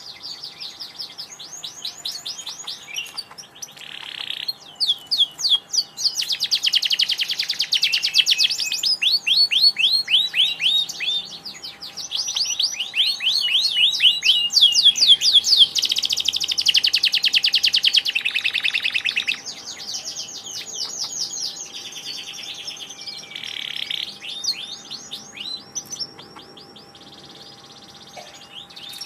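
Domestic canary singing a long, continuous song of rapid trills, each run made of many fast repeated notes, with brief pauses between runs and the loudest passages in the middle.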